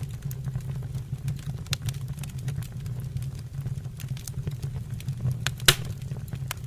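Wood fire burning in a fireplace: a steady low rumble with scattered crackles and pops throughout, one sharper pop near the end.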